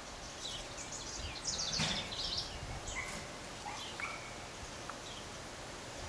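Small birds chirping and whistling in short, high calls over a steady outdoor background, with a brief knock about two seconds in.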